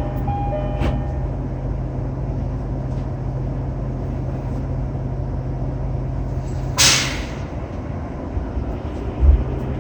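Inside a JR East E231-800 electric commuter train standing at a platform: the two-tone door chime ends about a second in over a steady low hum from the car. About seven seconds in there is one sharp, short hiss of compressed air, typical of the air brakes releasing before departure, and a low thump follows near the end.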